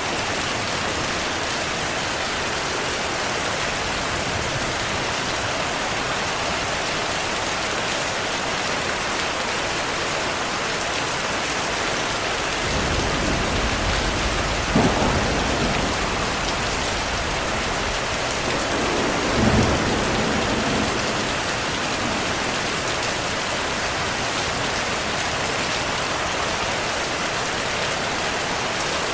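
Steady heavy rain hissing, with rolling thunder rumbling in about halfway through: a sharp crack and then a second swell of rumble before it fades back to rain alone.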